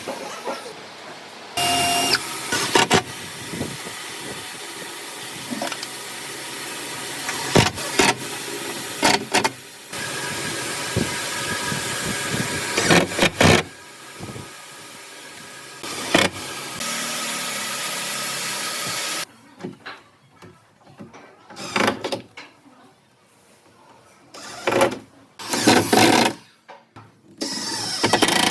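Woodworking shop sounds: several stretches of steady power-tool noise that start and stop abruptly, with sharp knocks among them, then, in the last third, a series of separate knocks and taps on wood.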